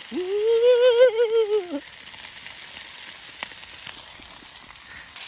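A drawn-out vocal note, about a second and a half long, with a wavering pitch that rises, holds and falls away. After it, food sizzles quietly in a frying pan, with a single click partway through.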